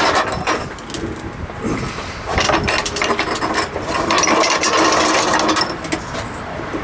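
Metal-on-metal clicking and rattling of a hydraulic floor jack being worked under a truck, with a steadier stretch in the middle.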